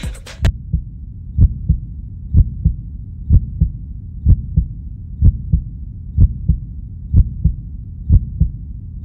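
Music cuts off about half a second in, then a heartbeat sound effect: paired low thumps, lub-dub, repeating steadily a little under once a second.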